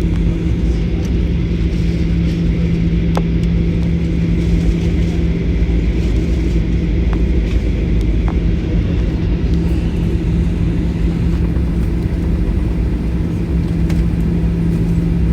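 Airliner cabin noise on the ground just after landing: the engines and the plane rolling on the runway make a steady low rumble with a constant hum, and a few faint cabin rattles.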